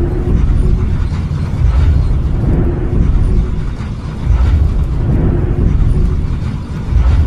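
Film sound effect of the alien tripods walking: deep rumbling thuds that swell about every two and a half seconds, each carrying a low droning tone.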